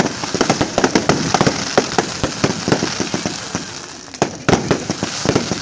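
Fireworks display: a rapid, irregular string of sharp bangs and cracks, several a second, with a cluster of stronger bangs near the end.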